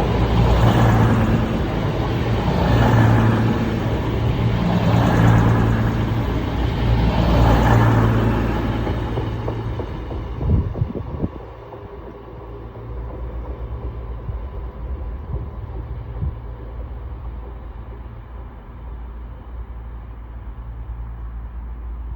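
Underfloor diesel engines of a Class 221 Voyager diesel-electric multiple unit running at the platform, a loud low rumble that swells and eases about every two seconds. About ten seconds in the sound drops to a quieter steady idle, with a few short knocks as it settles.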